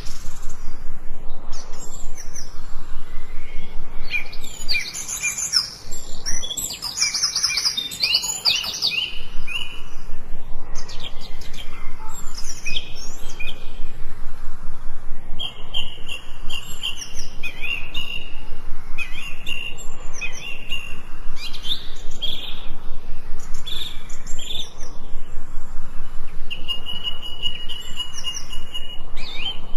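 Several forest songbirds singing and chirping over one another: quick chirps mixed with a few longer held whistled notes.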